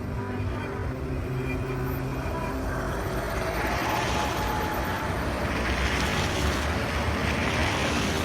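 Street traffic: a low engine rumble, with the noise of a passing vehicle swelling from about three seconds in and staying loud to the end.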